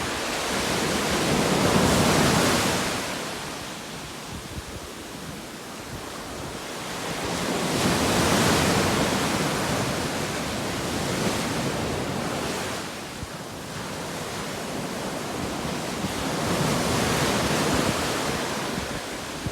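Ocean surf: waves washing in with a steady rush that swells three times, about six to nine seconds apart.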